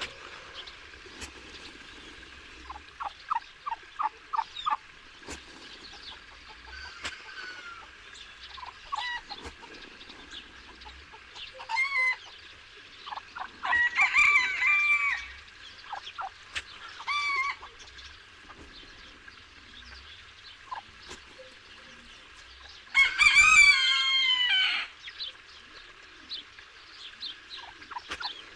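Chickens clucking in short quick runs, with a rooster crowing twice, about halfway through and again, longer and loudest, near the end.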